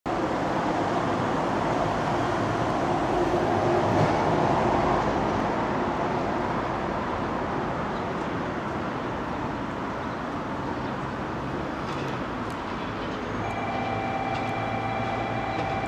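Steady broad outdoor rush throughout, a little louder about four seconds in; near the end the JR Kyushu 819 series 'DENCHA' battery electric train approaches with a steady electric whine in several pitches.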